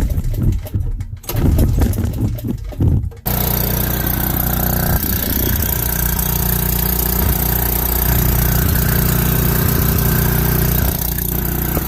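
Briggs & Stratton portable generator engine starting: irregular rumbling and knocks, then about three seconds in the engine catches suddenly and runs steadily. It is the first start after sitting about a year, following a fuel-tank gasket repair.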